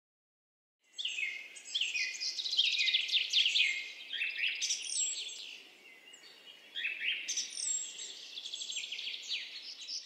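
Songbirds singing: dense, quick chirps and descending trilled phrases that begin about a second in, ease off around the middle and pick up again.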